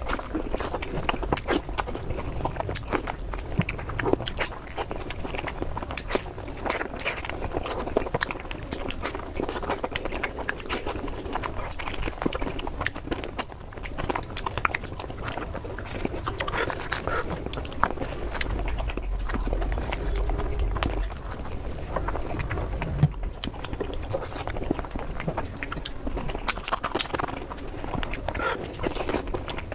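Close-miked eating: chewing and mouth sounds, a dense run of small irregular clicks.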